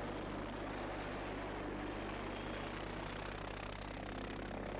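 MBB BO-105 light helicopter in flight, a steady mix of rotor and engine noise with a low hum underneath.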